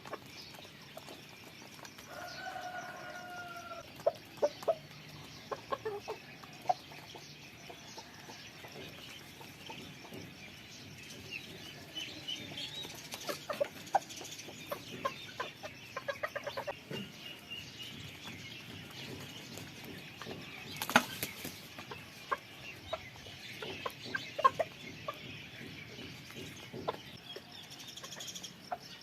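Chickens clucking in a poultry aviary, with scattered short calls and taps. There is one held call early on, and a single sharp knock about two-thirds of the way through.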